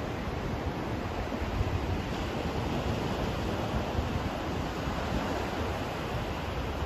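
Steady white noise: an even, unbroken rushing hiss, heavier in the low end than the high, with no changes.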